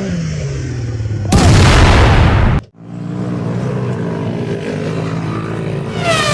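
Motocross bike engine running and dropping in revs, then a loud noisy burst a little over a second long that cuts off abruptly. Another dirt-bike engine then runs steadily, with a high falling cry near the end.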